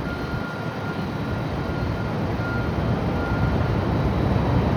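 Steady low rumble of city street traffic, rising slightly in level, with a faint thin whine coming and going in the first couple of seconds.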